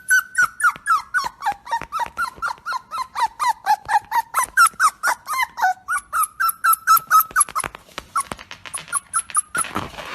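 A dog making a fast run of short, high-pitched whining yips, about four or five a second, each call bending downward in pitch. The calls thin out near the end.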